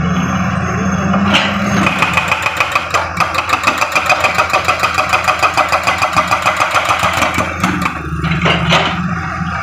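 A heavy-machine diesel engine is running. From about two seconds in it is joined by the rapid, even blows of a hydraulic breaker hammering the road, roughly five a second. The hammering stops near the end and the engine runs on alone.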